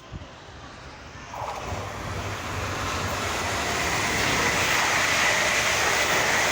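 Train approaching the platform: a rushing noise of wheels on track that builds steadily louder from about a second and a half in.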